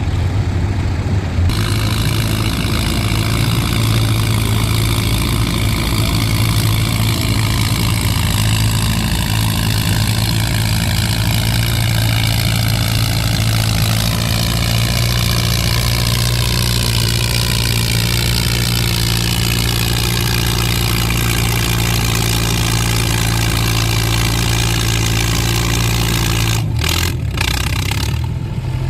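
Antique farm tractor engine working hard under load as it pulls a weight-transfer sled down the track, a steady, loud running note. Near the end the engine note breaks and drops as the pull ends.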